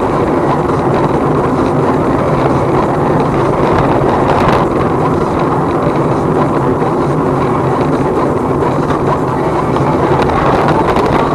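Steady engine and road noise of a moving vehicle, with some wind.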